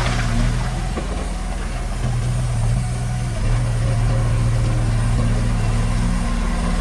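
Diesel engine of heavy earthmoving equipment running steadily. Its hum eases for about a second, starting about a second in, then picks back up.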